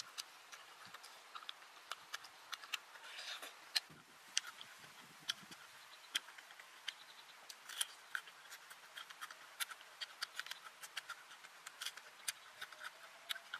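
Close-up chewing of chicken and crisp lettuce leaves: many short, sharp crunches and mouth clicks at an irregular pace, with lettuce leaves being torn and handled.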